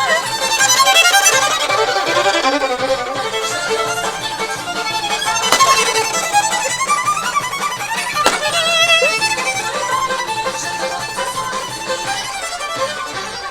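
Solo violin playing a lively melody, with vibrato on held notes and quick runs of notes.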